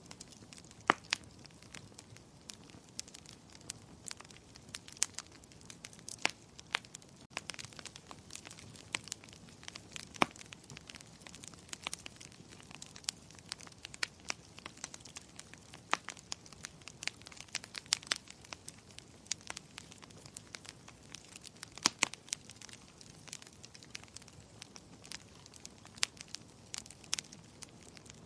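Wood fire crackling in a fireplace: irregular sharp pops and snaps, several a second, over a soft steady hiss of the flames.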